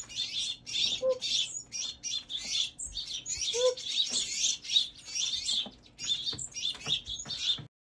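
Baby birds chirping rapidly and continuously in a crowded string of high chirps, cutting off suddenly near the end.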